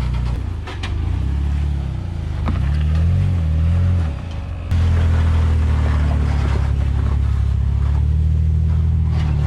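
Jeep engine pulling at low speed while rock crawling, its revs rising and falling, then picking up sharply about halfway and holding steady under load.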